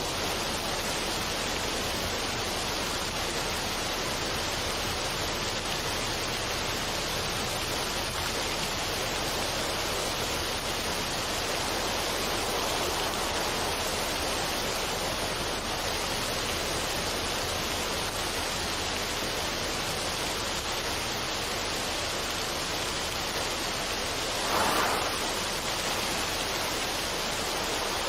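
Steady, even rushing noise, a relaxation ambience like falling water, with one brief louder swell near the end.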